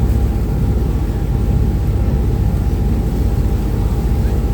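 Uber Boat river catamaran's engines and water-jet drive running: a loud, steady low rumble with a faint steady whine above it.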